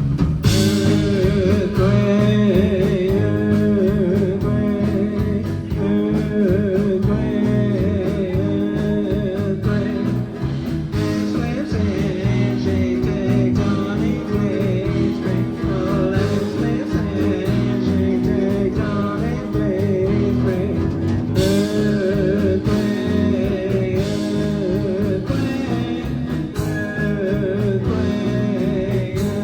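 Live rock band playing: guitars and bass over drums, with singing. Cymbal crashes come about half a second in and again around twenty-one seconds in.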